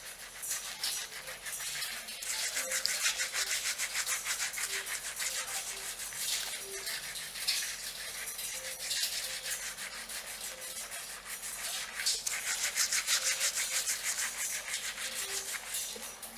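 Fingernails scratching through hair on the scalp: rapid rasping strokes that swell louder in bouts.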